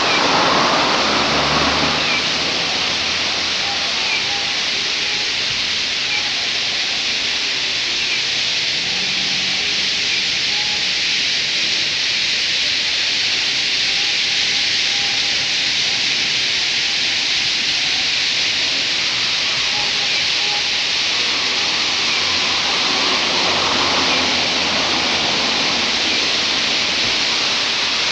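A large flock of white-cheeked starlings calling all at once, their many chattering calls merging into a steady, loud, hiss-like din.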